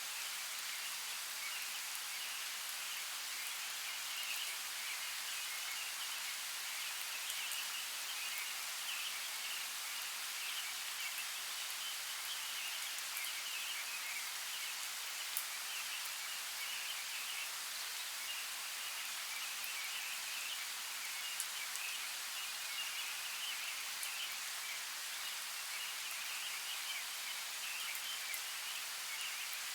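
Light rain falling, a steady even hiss with a few sharper drop ticks, one standing out about halfway through and another a little later.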